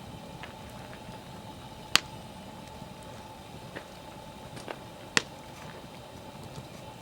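Wood campfire burning with a steady low hiss and scattered sharp crackling pops, the two loudest about three seconds apart.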